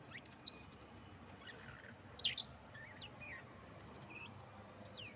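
Budgerigars chirping: scattered short, quick chirps, the loudest about two seconds in.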